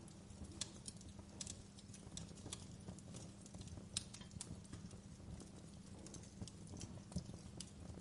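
Wood fire crackling in a fireplace: irregular sharp pops and snaps, the loudest about four seconds in, over a steady low rumble of the burning logs.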